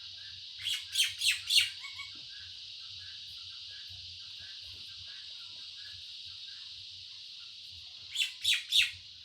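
A bird chirping: a quick run of about four sharp, downward-sweeping chirps about a second in, and another near the end, over a steady high hiss.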